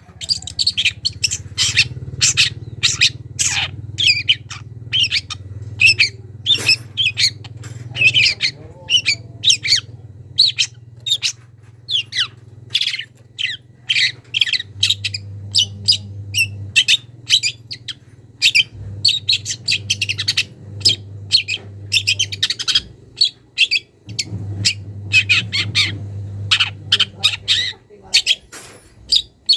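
Young long-tailed shrike (cendet) singing a fast, varied run of short chirps and harsh squawks, unloading its repertoire of mimicked calls, over a steady low hum.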